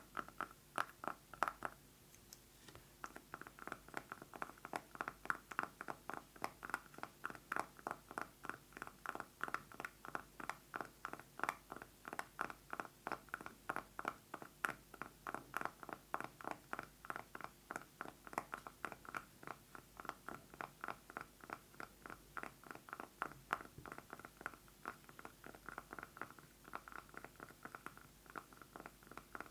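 Fast fingernail tapping on a candle jar, a steady stream of quick taps with a ringing note to each, broken by a short pause about two seconds in.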